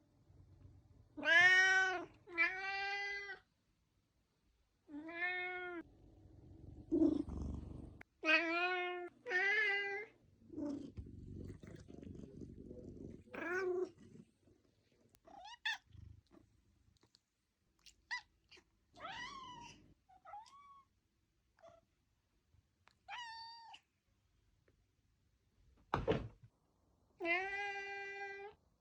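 Domestic cat meowing over and over, about a dozen short meows that each rise and fall in pitch, with a few softer chirps between them. Near the end there is a single thump.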